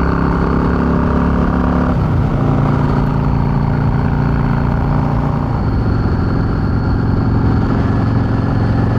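Yamaha V-Star 650's air-cooled V-twin engine running at steady road speed. Its note drops to a lower steady pitch twice, about two seconds in and again around five and a half seconds in.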